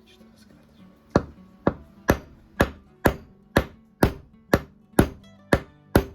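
Hammer tapping, a series of sharp even strikes about two a second starting about a second in, each with a short ring, over background music.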